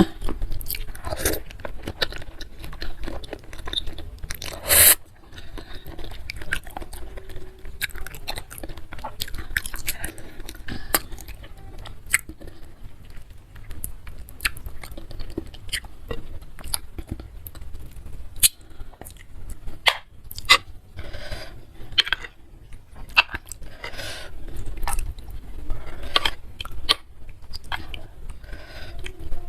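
Close-miked chewing and biting of a bowl of bakso meatball soup with noodles and chicken feet, full of short sharp mouth clicks, with one louder burst about five seconds in.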